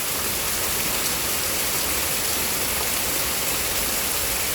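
Heavy rain pouring steadily in a thunderstorm, an even rushing hiss with no letup.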